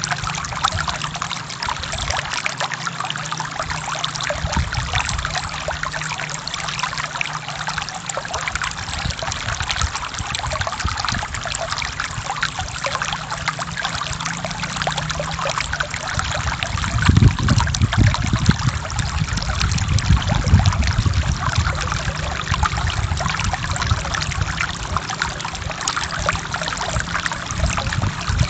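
Stream water flowing and trickling in a steady splashing rush. About two-thirds of the way through come a few seconds of louder, deeper surging.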